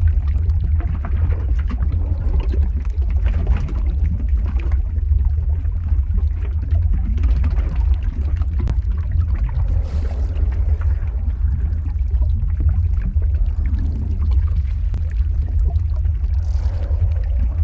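Lava-flow ambience sound effect: a steady deep rumble with uneven bubbling, gurgling texture over it.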